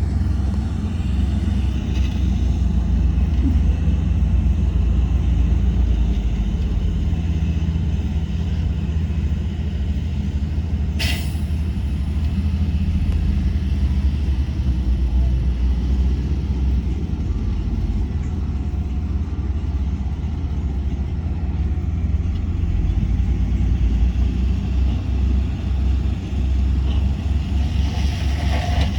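Heavy diesel earthmoving machinery running steadily with a deep low rumble, with one short sharp sound about eleven seconds in.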